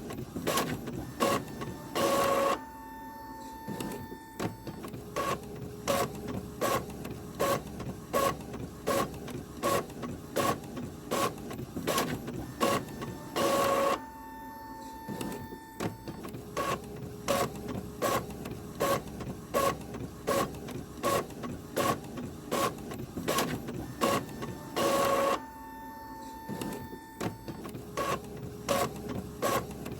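Printer running: a steady run of sharp mechanical strokes, about two a second, broken by a louder short whir that comes back about every eleven and a half seconds, three times.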